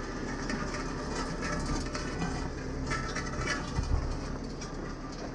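Heavy diesel engine running steadily with a low rumble, with scattered metallic clicks and a dull thump about four seconds in.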